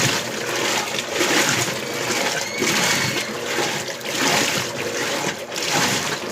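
Electrolux LBU15 top-loading washing machine agitating a load in its rinse water: water sloshing and splashing in regular surges about once a second as the agitator reverses.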